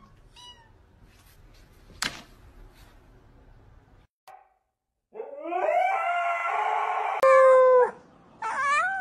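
A dog howling in long drawn-out calls, the first rising and then held, a second starting near the end. Before that the sound is faint, with a single sharp click about two seconds in.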